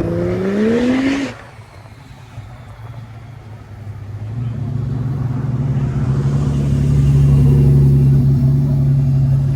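Car engine revving with rising pitch, cutting off suddenly about a second in. After a quieter gap, a steady low engine note builds from about four seconds in and is loud near the end.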